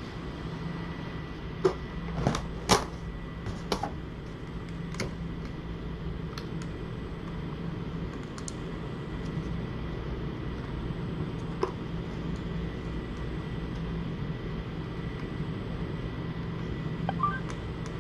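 Steady low background hum with a few sharp light clicks and taps, several close together in the first few seconds and single ones later.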